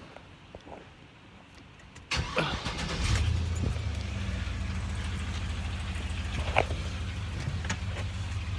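2005 GMC Sierra's 6.0-litre V8 cranked by the starter about two seconds in, catching within a second and settling into a steady idle. The rear driver's-side exhaust manifold leak is closed up with a repair bracket.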